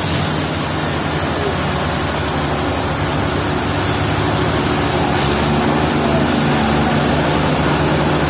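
Sawmill engine running steadily under a haze of mechanical noise, its tone shifting slightly about five seconds in.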